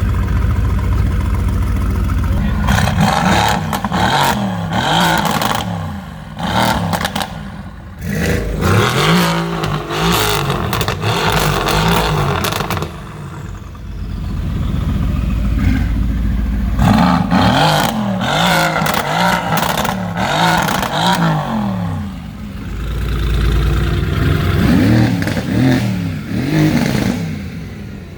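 Mercedes-AMG GT twin-turbo V8 being free-revved in clusters of quick blips, the pitch climbing and dropping again and again, settling back to a low idle between clusters.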